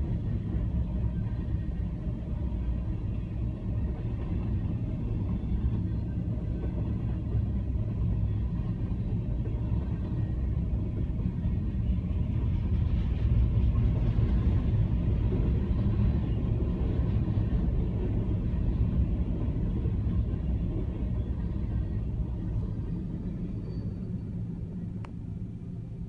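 Covered hopper cars of a freight train rolling past a grade crossing: a steady low rumble of wheels on rails, heard from inside a car, a little louder midway and easing off near the end.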